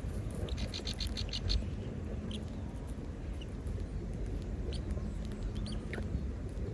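Small birds chirping: a quick run of about seven high chirps, then scattered single chirps, over a steady low rumble.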